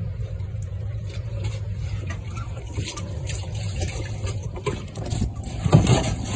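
A steady low rumble, with a few short knocks and splashy bursts near the end.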